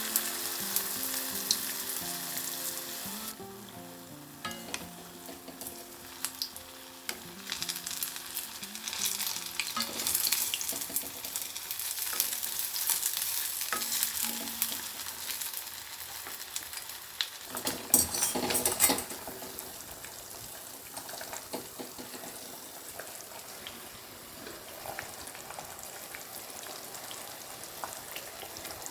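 Food frying in a pan, a steady sizzle with scattered light clicks. Soft background music plays under it and stops about two-thirds through, just before the sizzle swells briefly.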